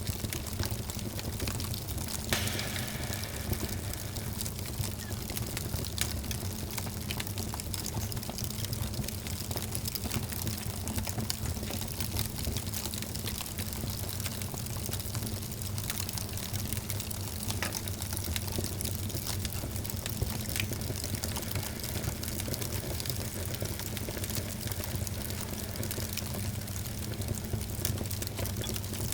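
Wood fire crackling in a fireplace: many small sharp pops and snaps scattered over a steady low rumble of the flames.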